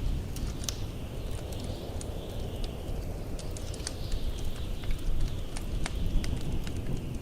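Wood fire crackling with many sharp pops, over the low steady rumble of blizzard wind; a higher whistle of wind swells and fades several times.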